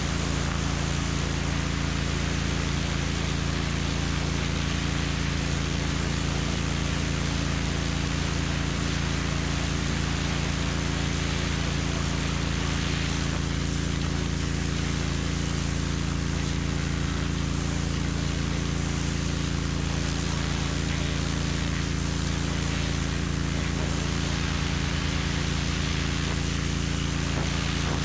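Pressure washer running steadily, its water jet spraying on the patio pavers with a constant hiss over the machine's steady hum.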